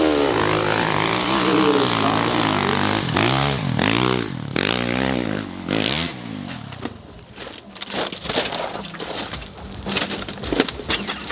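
Dirt bike engine revving hard, its pitch swinging up and down again and again, then fading after about six seconds to a quieter stretch with scattered clicks and knocks.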